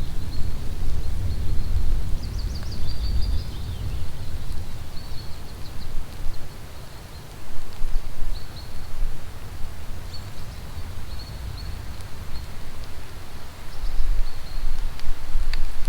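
Forest rainstorm: an even hiss of rain over a low rumble that is strongest in the first few seconds, with a bird's short, high chirps coming and going through it.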